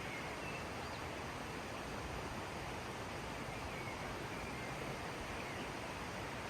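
Steady rushing of a flowing river, an even constant wash of water noise, with a few faint high chirps.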